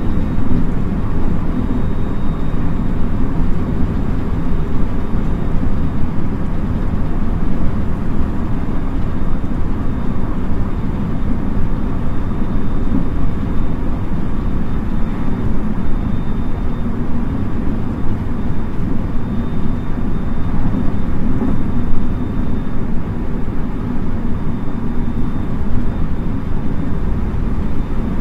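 Running noise of a JR West 223 series 2000 electric multiple unit at steady speed, heard aboard its motor car: a continuous low rumble of wheels on rail, with a faint steady high tone over it.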